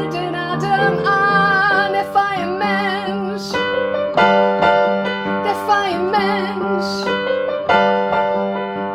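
Piano playing a slow accompaniment while a woman sings long held notes with vibrato.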